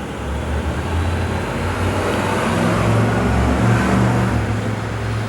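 A motor vehicle's engine running close by over street traffic noise, its low hum shifting in pitch and growing louder about three to four seconds in before easing off.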